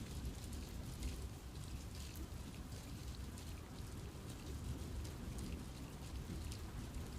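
Steady rain falling in a forest, with many distinct drops pattering over a soft, low rumble.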